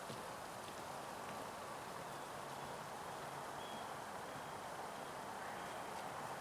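Steady, faint outdoor background noise on a wooded trail, with a few faint short high chirps in the second half.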